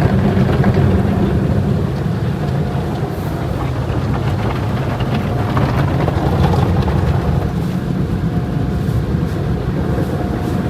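Steady low vehicle rumble with an even hiss of road or wind noise over it, unchanging throughout.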